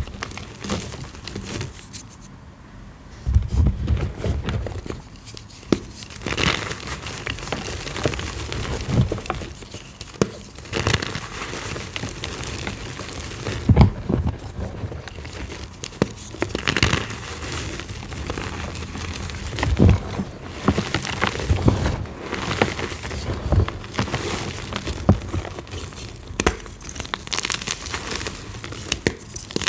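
Gym chalk being crushed and crumbled: an irregular run of crunching and crackling, with a few louder cracks as pieces break.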